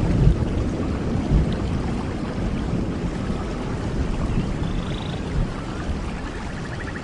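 Steady rain, an even hiss with a deep rumbling low end. A faint trilling chirp comes near the end.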